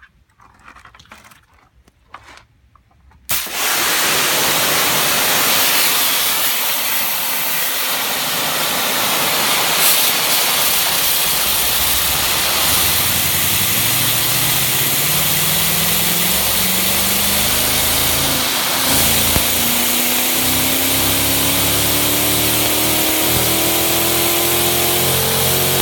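A pressure-washer jet hitting a Kawasaki KLX110's knobby off-road tyre: a sudden loud hiss of spray, then a tone from the tread knobs chopping the jet that rises steadily in pitch like a V8 engine accelerating. The wheel is being spun faster by the spray. A few faint knocks come before the washer starts.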